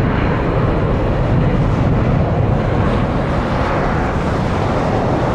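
Steady, loud roar of a C-17 Globemaster III's four turbofan jet engines at takeoff power, a deep rumbling noise as the aircraft takes off and climbs out.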